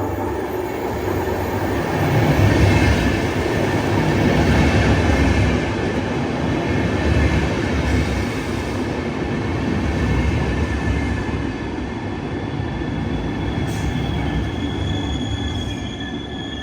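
Passenger train running on the track, heard from inside the carriage: a steady rumble of wheels on rail. Faint high wheel squeal comes in near the end.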